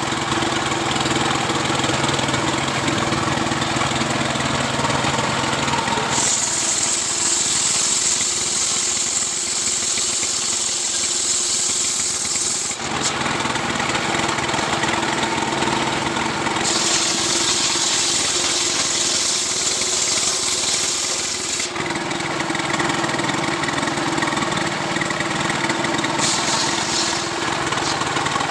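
Two-stroke Stihl chainsaw running without a break while sawing a coconut-palm trunk lengthwise into a beam. Twice, for several seconds, the sound turns brighter and hissier as the chain cuts, then settles back to a steadier, lower engine tone.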